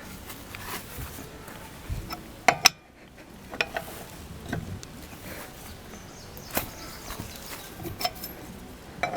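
Scattered metallic clicks and knocks of a wheel wrench being fitted onto and turned on a car's wheel bolts to loosen them, a few separate strikes a second or so apart.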